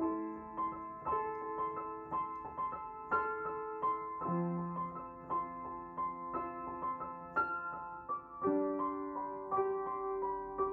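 Background piano music: a gentle melody of soft notes over held chords.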